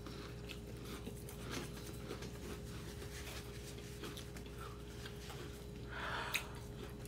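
Faint chewing and mouth sounds from people eating crackers, with small scattered clicks. About six seconds in, a breath is puffed out through pursed lips against the chili heat.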